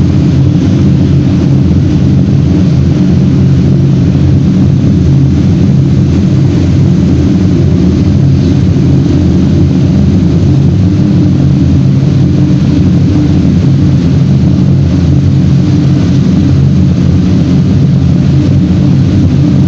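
Reverberatory furnace in operation: a loud, steady low roar with a constant hum that does not change.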